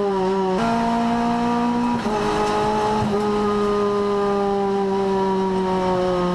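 Renault Clio Cup race car's four-cylinder engine heard from inside the cabin, holding steady revs. The pitch jumps up about half a second in, drops back about two seconds in, then slowly falls as the car eases off.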